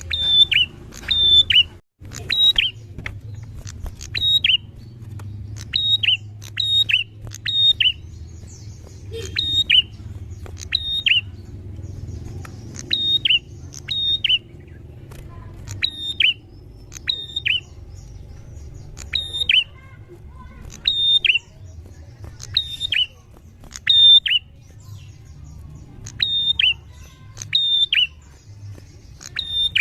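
Prinia (prenjak) calling: short, sharp high notes in quick pairs and triplets, repeated over and over with brief gaps. A low steady hum runs beneath.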